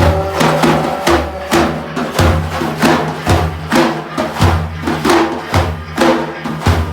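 Sufi frame drums beating a steady devotional rhythm, with a deep stroke about once a second and lighter strokes between.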